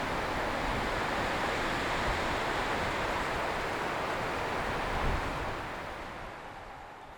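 Strong wind rushing through forest trees, a steady even roar that dies away over the last second or so.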